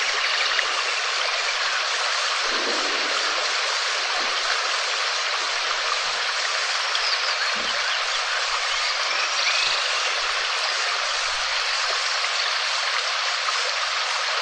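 Steady heavy rain, an even hiss of falling water with no breaks. A few faint chirps sound through it.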